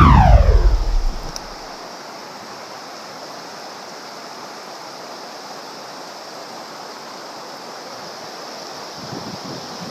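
A mountain stream running steadily. It opens with a loud tone sliding downward in pitch over a low rumble, lasting about a second and a half.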